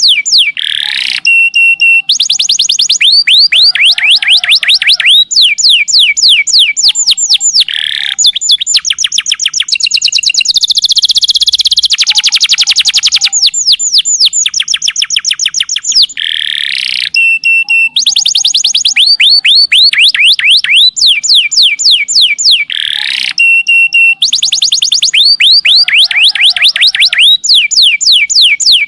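Domestic canary singing long, rapid trills of fast repeated whistled notes ('nembak panjang'), broken by brief steady piping tones and short warbles; the same song passage seems to come round again about halfway through.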